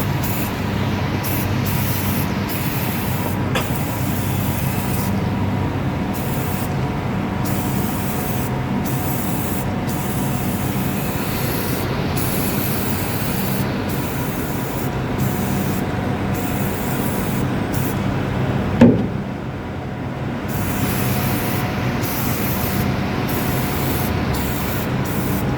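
Aerosol can of Armor All Tire Foam spraying in a string of bursts, the hiss breaking off briefly every second or so, over a steady low hum. A sharp click comes about three-quarters of the way through.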